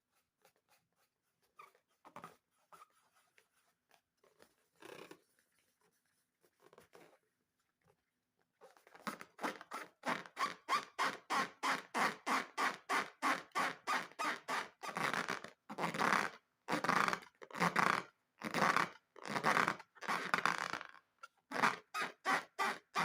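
Rubber balloons squeaking as they are handled. Light scraping and tapping at first; then, about nine seconds in, a loud run of fast squeaks, about four or five a second, that continues with short breaks.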